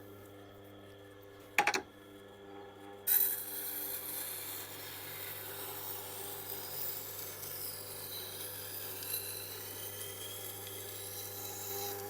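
Tormek T8 sharpener's motor running with a steady hum as its SG-250 grindstone turns, with a short knock about one and a half seconds in. From about three seconds in, a steel knife blade is drawn across the stone, which has been graded to about 1000 grit, giving a steady grinding rasp.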